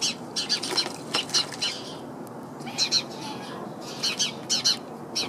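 Small bird chirping in rapid bursts of short, high calls, several bursts with brief pauses between them.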